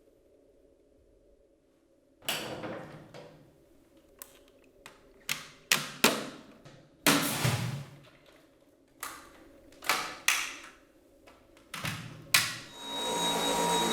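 Hard plastic clicks and knocks from handling a Dyson V8 cordless vacuum: the wand unclipped, the red bin-release lever pulled and the clear bin's base dropping open and snapping shut. About a dozen sharp knocks come at uneven intervals, and near the end the motor starts with a steady whine.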